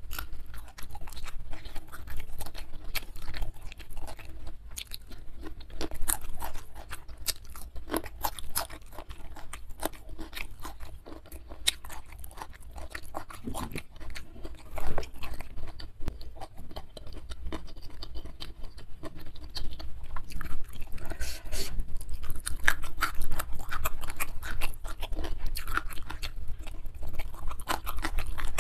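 Close-miked chewing of a hand-fed mouthful of rice, salted squid and sambal, with frequent crunching bites and wet mouth sounds.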